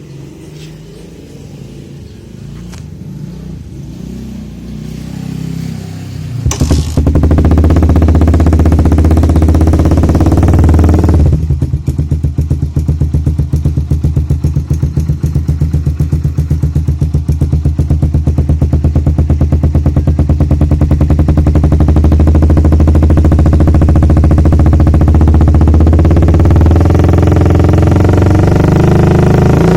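Suzuki Satria FU 150 single-cylinder engine running through a 30 cm aftermarket exhaust, recorded loud and close. It starts abruptly about six seconds in, revs briefly, then settles into an even, fast-pulsing idle. The pitch rises again near the end as it is revved.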